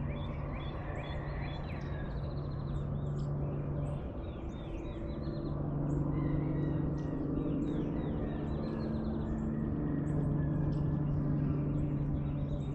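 Dawn bird chorus: many birds chirping and calling in short, overlapping notes. Under it runs a steady low hum that breaks off briefly about four seconds in, then returns.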